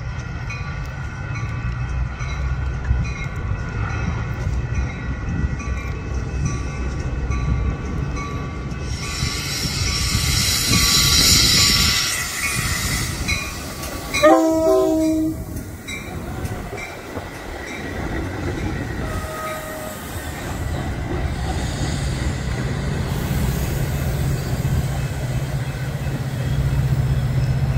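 Train at a station: a steady low rumble with a loud hiss about ten seconds in, then one short horn blast about fourteen seconds in.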